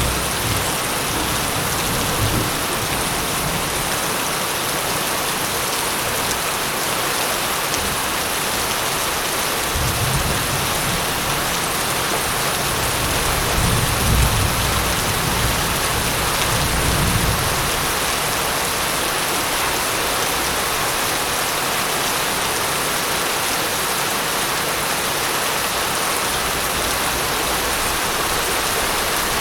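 Steady heavy rain hissing, with a low roll of thunder that swells from about a third of the way in, peaks, and fades out past the middle.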